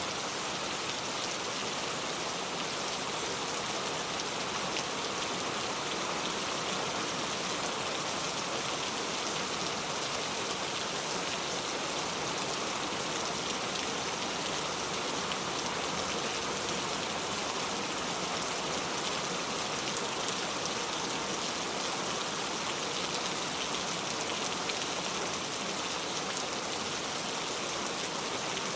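Steady rain falling, an even hiss of drops that never lets up.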